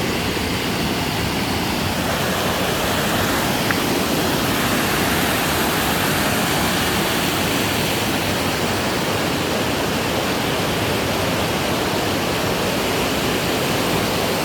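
Steady, loud rush of flowing creek water: a continuous even hiss with no change through the stretch.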